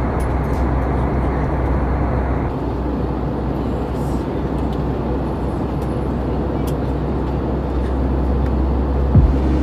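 Steady cabin noise of a jet airliner in flight: a constant low roar and hum from the engines and airflow, its upper hiss easing a little about two and a half seconds in.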